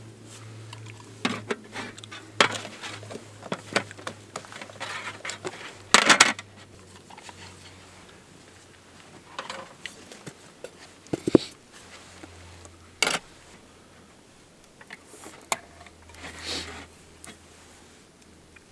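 Metal cookware and utensils being handled, with irregular clinks, knocks and short clatters, the loudest a brief clatter about six seconds in.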